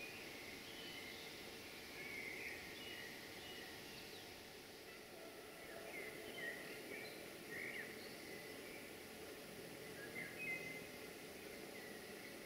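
Birds chirping, short scattered calls over a steady faint background hiss.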